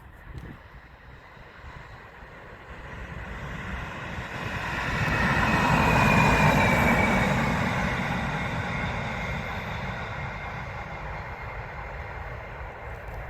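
A train passing by on the railway line. The rumble and wheel noise build to a peak about six seconds in and then fade slowly, with a faint falling whine as it goes past.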